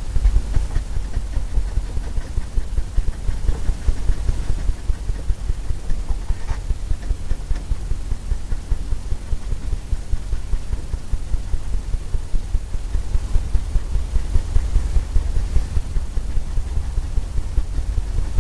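Low, rumbling scrubbing with quick soft thumps from a paintbrush being worked back and forth over a stretched oil-painting canvas, the canvas carrying the strokes as a dull drum-like rumble.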